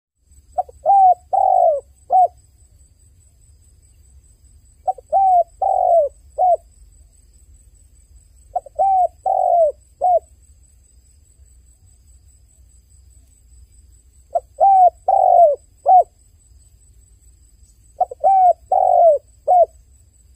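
Dove cooing in five repeated phrases, about four seconds apart. Each phrase is a short note, two longer coos and a clipped final note.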